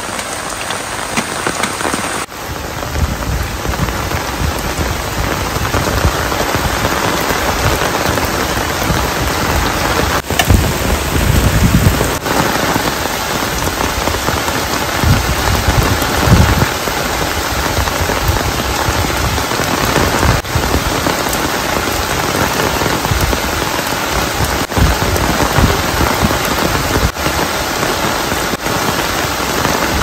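Very heavy rain pouring steadily on an umbrella, a nylon tent and wet ground, with a low rumble that rises and falls under it.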